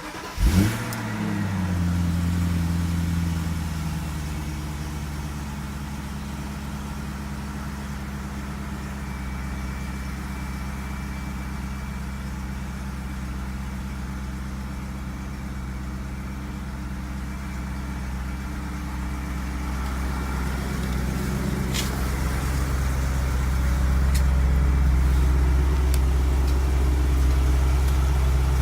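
BMW Alpina B5 E60's supercharged V8, on its stock exhaust, firing up from cold: it catches with a short rev flare, then settles into a steady fast cold-start idle whose pitch eases down over the first few seconds. The idle gets louder and deeper in the last few seconds, and there is a single sharp click about 22 seconds in.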